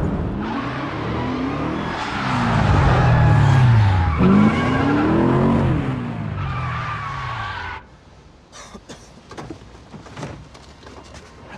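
Car engines revving hard, rising and falling in pitch twice, with tyres squealing and skidding. The sound cuts off suddenly about eight seconds in, leaving only faint clicks and ticks.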